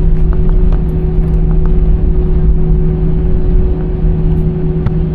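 Airliner cabin noise after landing: a loud, steady low rumble from the jet engines and airflow, with a constant hum and a few faint clicks.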